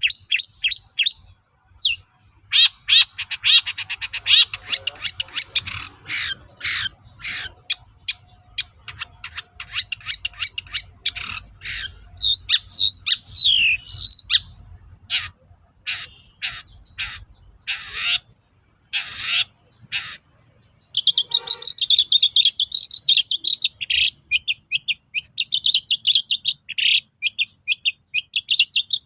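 Long-tailed shrike (cendet) singing: a rapid, varied chattering song of quick trills and harsh rasping notes, with a brief pause about two-thirds through before the chatter resumes.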